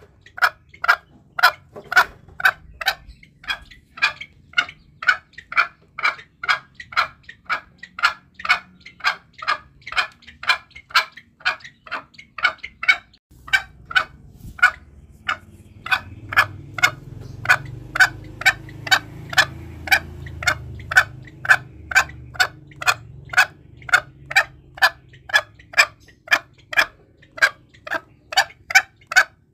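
Green junglefowl clucking in short, evenly spaced calls, about two a second: a lure call for drawing in wild junglefowl. A low background rumble comes in about halfway through and fades near the end.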